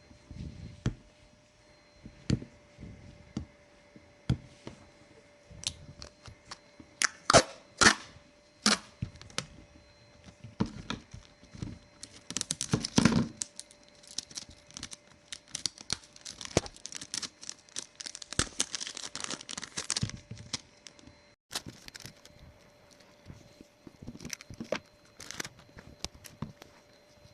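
Sticky tape and tape-covered paper being handled as paper pieces are taped together: tape pulled and torn, paper crinkling, with scattered sharp clicks and taps. A longer stretch of rustling and tearing comes in the middle.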